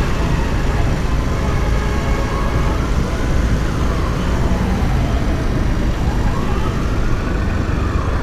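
Motorcycle riding in city traffic: steady engine and wind rumble on the microphone, with a faint tone that rises and falls twice in the background.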